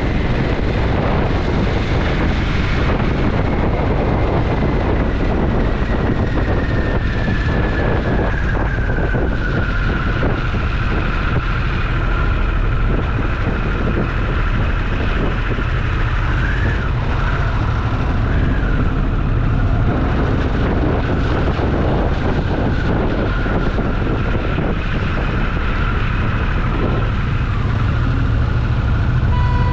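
Twin-cylinder motorcycle engine running steadily under way, with wind buffeting the action camera's microphone. A faint whine slowly falls in pitch over the first ten seconds.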